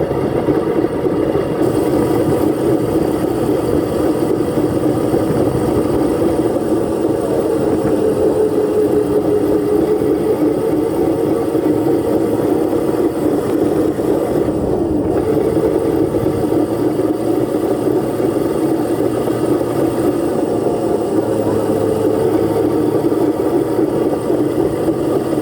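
Dirt bike engine running steadily, its pitch rising and falling slightly as the throttle shifts.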